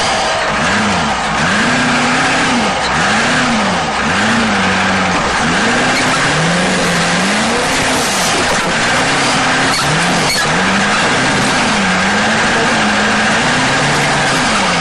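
Off-road competition truck engine revving up and down over and over, about once a second, over a loud steady rushing noise.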